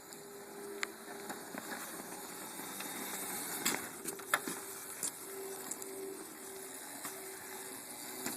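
Small motor of a toddler's dirt bike with training wheels running at a steady hum, with a few sharp clicks and knocks over the top.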